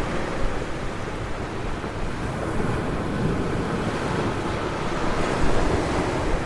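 Ocean surf breaking and washing up a beach in a steady wash of noise that swells and eases, with wind rumbling on the microphone.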